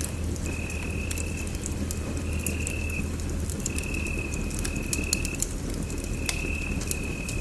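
Wood fire crackling in a fireplace, with sharp pops scattered through a steady low rumble. Over it runs a repeated high-pitched trill in stretches of about a second, with short gaps between.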